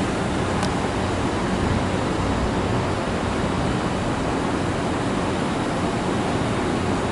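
A train passing at speed: a loud, steady rushing roar with a low hum underneath, unchanging throughout.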